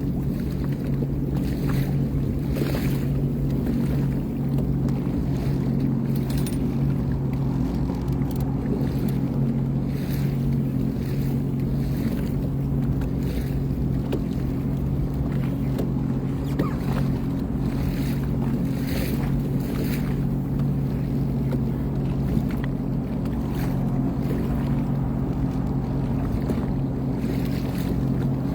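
2023 Sea-Doo Fish Pro personal watercraft's engine running steadily underway, a constant drone with brief hissing swishes of water and wind every second or two.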